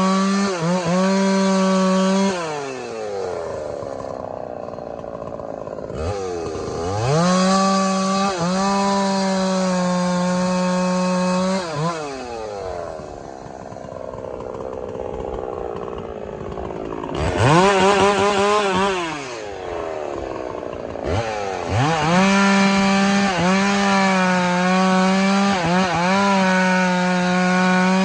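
Gasoline chainsaw cutting firewood: the engine holds at full throttle with its pitch briefly sagging under load as the chain bites. Several times it drops away toward idle, then revs back up, with a short high rev near the middle and full-throttle cutting again for the last quarter.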